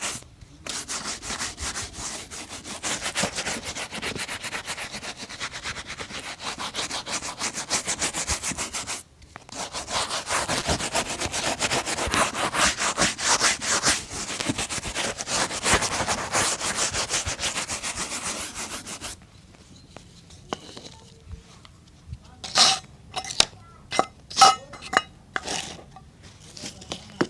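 A boot being scrubbed with rapid back-and-forth rubbing strokes, with a brief pause about nine seconds in. After about nineteen seconds the scrubbing stops and gives way to scattered sharp taps and clicks.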